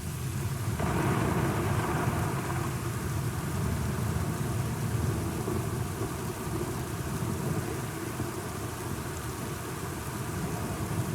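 A long roll of thunder over steady rainfall: the rumble swells about a second in, is loudest in the first few seconds, then slowly fades away.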